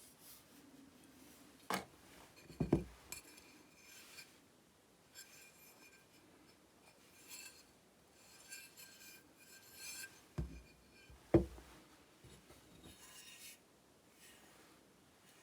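Hand cleaning of chainsaw parts: light scraping and rubbing, broken by sharp knocks and clinks about two seconds in and again around ten to eleven seconds.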